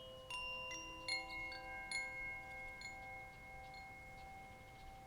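Soft chimes ringing in a meditation music bed: bell-like notes struck every second or so, each one ringing on and overlapping with the next.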